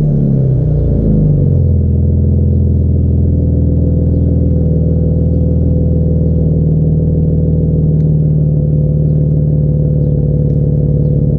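Exhaust of a 2017 Jeep Cherokee Trailhawk with the muffler deleted and the resonators kept. The engine comes down off a rev in the first second or two, then settles into a steady, even drone.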